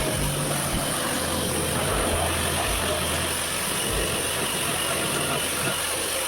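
Pressure washer running, its motor humming steadily while spraying water onto a car.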